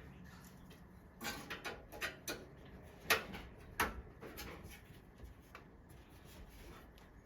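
Computer hardware being handled and fitted during a PC build: a run of light clicks and taps, the two sharpest about three and four seconds in, then a few fainter ticks.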